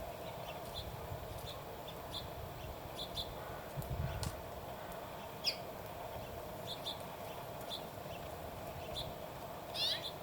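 Small birds chirping, short high chirps repeating every second or so, with a longer sweeping call near the end. A steady low hum runs underneath.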